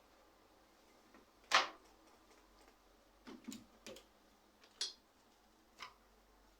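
A handful of separate sharp clicks and knocks of hard objects being handled, about five in all, the loudest about a second and a half in, over a quiet background.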